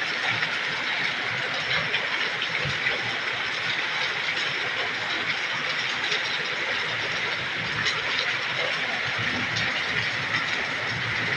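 Heavy rain pouring down: a steady rushing hiss with scattered small ticks.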